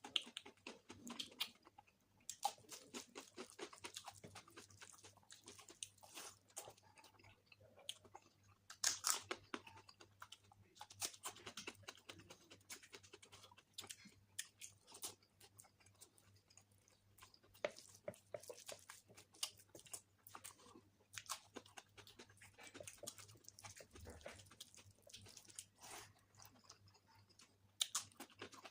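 Close-miked chewing and mouth sounds of a person eating egg curry with rice: irregular wet smacks and clicks with short pauses between mouthfuls.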